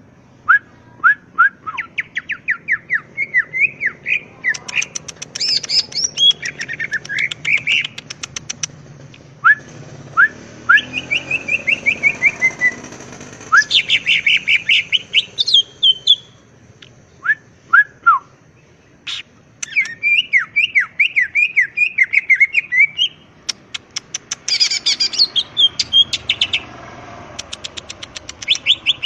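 Green leafbird (cucak ijo) singing continuously: loud phrases of quick chirps, rapid note runs and falling whistled sweeps, separated by short pauses.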